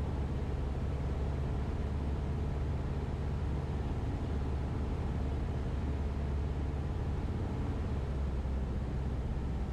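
Cessna 172RG's four-cylinder engine and propeller running at a steady drone in flight, with constant airflow noise.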